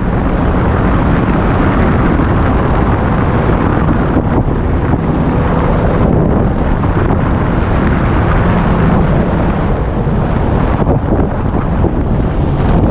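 Heavy wind buffeting on a helmet-mounted camera's microphone while riding a Yamaha R1 at speed, with the bike's inline-four engine faintly steady underneath.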